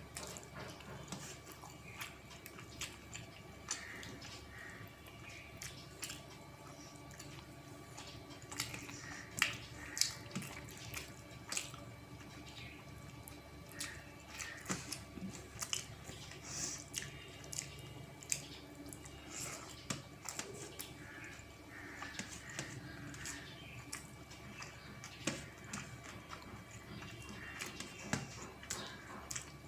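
Close-up eating sounds: wet chewing and lip smacks from someone eating rice with dal and fish curry, made up of many short, irregular clicks.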